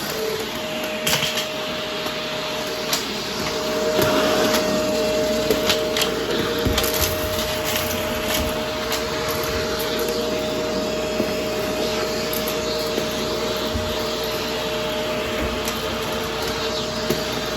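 A vacuum cleaner running steadily with a constant motor whine, crackling and clicking as its brush roll picks up crunchy debris from the floor, with a thicker run of clicks in the middle.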